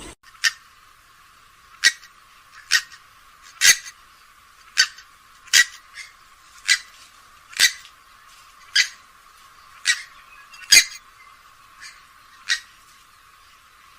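Grey-headed swamphen giving a series of short, sharp call notes, roughly one a second, at fairly even spacing.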